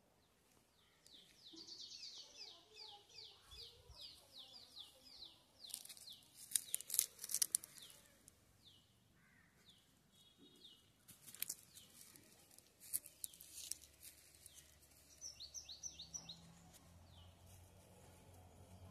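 Birds calling: quick runs of short, high, falling notes, several a second. Clusters of sharp clicks, the loudest sounds, come around the middle, and another quick burst of high notes comes near the end.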